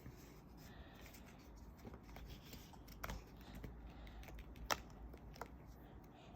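Faint rustling of paper being handled, with a few sharp light clicks, the loudest about three seconds in and near the five-second mark.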